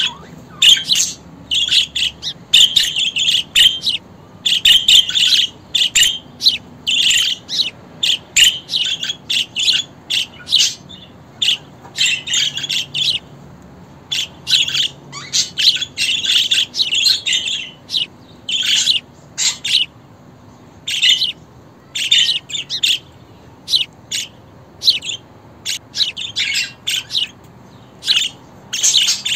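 Budgerigars chirping and warbling in quick, irregular runs of short high calls with brief pauses between.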